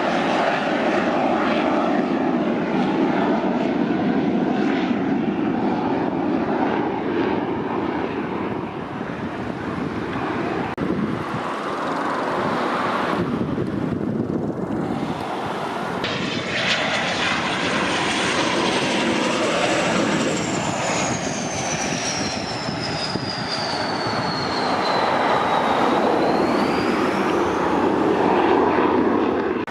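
Kawasaki T-4 jet trainer's turbofan engines: a steady jet rumble, broken by a short cut, then a high turbine whine that slides down in pitch as a T-4 flies a touch-and-go and rises again near the end.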